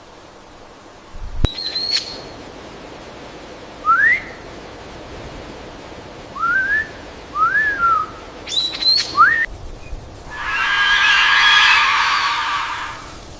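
Birds calling: a few sharp high chirps and several short rising whistles, then about three seconds of loud, dense, harsh chattering near the end.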